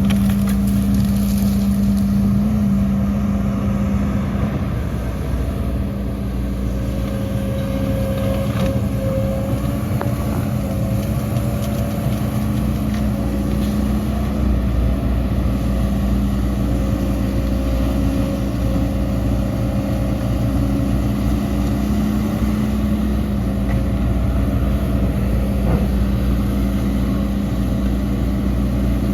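Heavy diesel earth-moving machinery running steadily, with a strong engine hum that eases off for several seconds and then comes back, and a few faint knocks.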